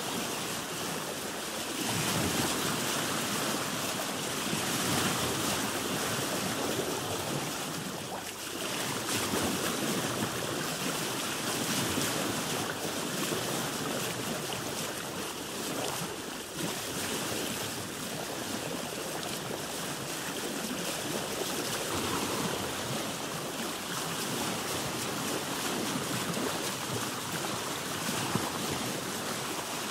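Sea water washing and splashing around a boat, a steady rush that swells and eases every few seconds.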